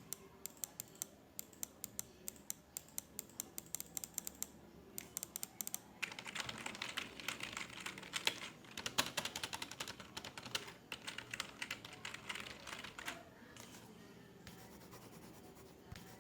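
Computer keyboard typing: a steady run of key clicks, turning denser and busier from about six seconds in, then thinning out near the end.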